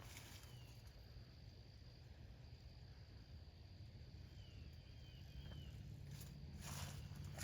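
Near silence: quiet outdoor ambience with a few faint, short high chirps, and a brief rustle about six seconds in.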